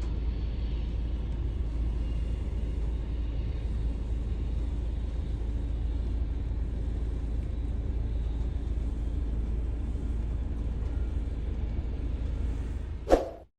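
Steady low rumble of jet aircraft noise at an airport, ending in a sharp click and cutting off suddenly near the end.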